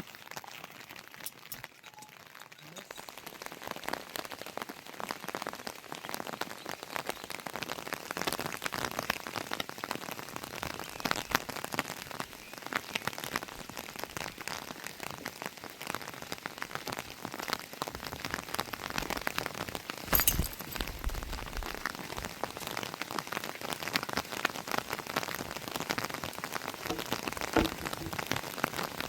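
Rain falling, a dense spatter of drops that is light at first and thickens within the first few seconds, then holds steady. About two-thirds of the way through there is one sudden louder crack with a brief low rumble.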